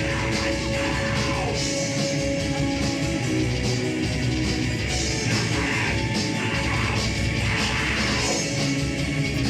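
Live heavy rock band playing, with electric guitar, loud and unbroken throughout.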